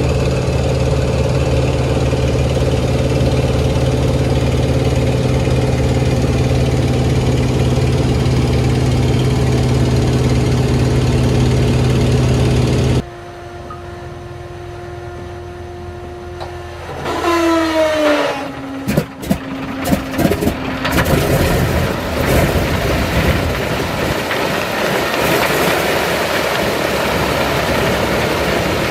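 Antonov An-2's nine-cylinder radial engine running steadily. After a cut, a starter whine falls in pitch as the engine is cranked, the engine fires with several sharp bangs about 18 to 21 seconds in, catches, and settles into running: a cold start.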